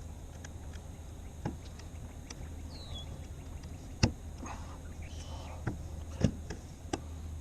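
A few sharp, separate knocks and clicks of gear on a kayak, the loudest about four seconds in, over a steady low hum. A short high falling chirp comes about three seconds in.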